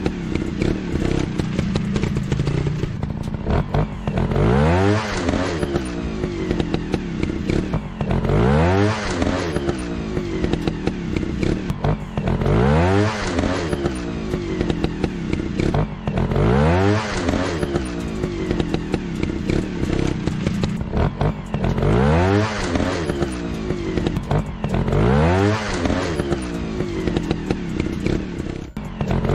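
Motorcycle engine revving up again and again over a steady drone, a rising rev about every four seconds in a very even repeating pattern.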